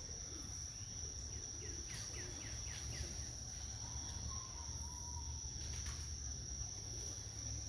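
Steady high-pitched chorus of insects such as crickets, with a bird calling a quick run of short, falling chirps about two seconds in.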